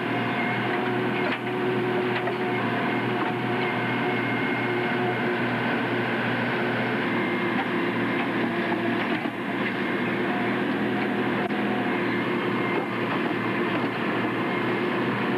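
A train running on the line: a steady mechanical drone with several held tones.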